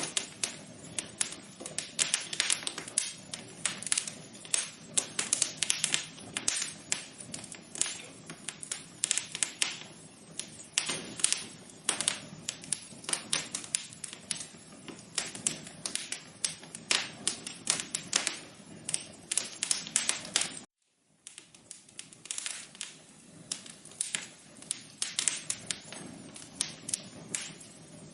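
Fireplace fire crackling: a dense, irregular run of sharp pops and snaps over a low hiss. The sound cuts out to silence briefly about three-quarters of the way through, then resumes.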